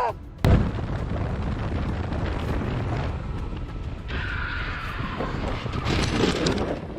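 Heavy wind rumble and road noise from a riding motorcycle's camera microphone, starting suddenly about half a second in. About four seconds in a higher hiss with a falling whine joins it and runs until near the end.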